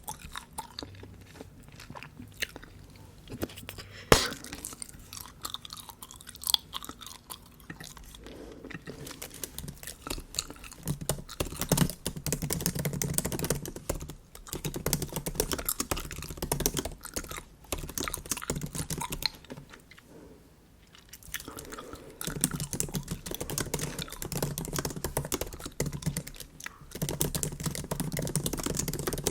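Bubble gum being chewed close to the microphone, with a few sharp clicks in the first several seconds and steady, dense chewing from about eight seconds in, broken by a brief pause about twenty seconds in.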